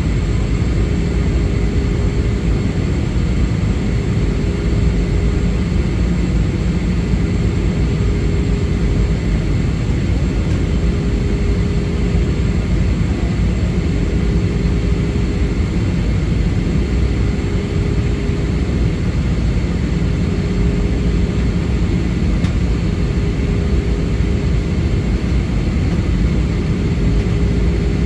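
Steady cabin noise of an Airbus A320 airliner: a constant roar of engines and rushing air with a low steady hum and a faint high whine.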